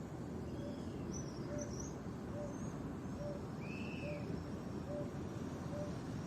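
Birds calling: a short, low hooting note repeated at an even pace a little more than once a second, with scattered high chirps and one louder arched call about four seconds in, over a steady low background rumble.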